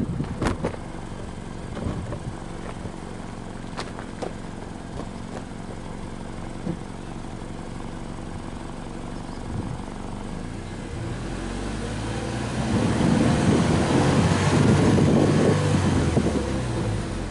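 Subaru BRZ R's 2.0-litre flat-four boxer engine heard at the exhaust tips, idling steadily, then revved up about twelve seconds in and held higher for about four seconds before dropping back toward idle.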